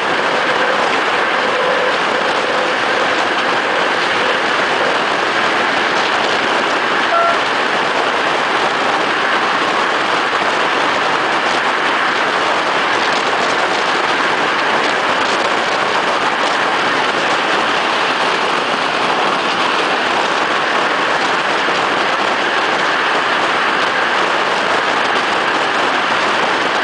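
Regional passenger train running at speed: a steady rush of wind and rolling wheel-on-rail noise, heard through an open window beside the carriage.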